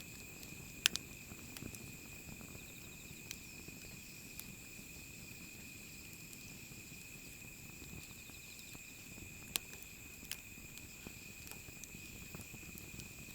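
Wood fire crackling softly, with a few sharp pops: a loud one about a second in and more scattered through. Behind it runs a steady high-pitched chorus of insects such as crickets.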